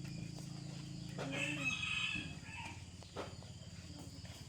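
A rooster crowing once, lasting about a second and starting just over a second in.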